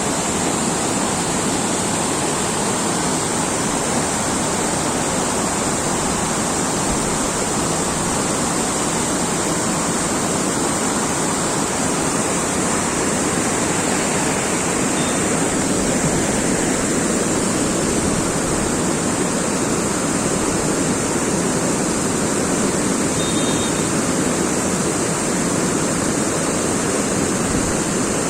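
Rushing water, a steady and even wash of noise.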